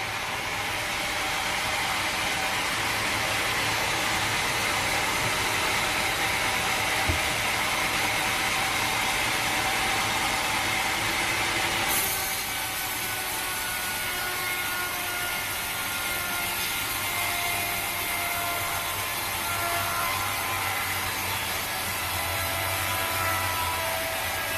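Sawmill saw cutting through a teak log: a steady, dense rasping with a faint whine over it. The sound changes abruptly about halfway through.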